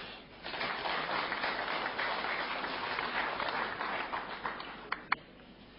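Audience applauding: a dense clapping that builds about half a second in, holds, then dies away in the last second, ending with a couple of single late claps.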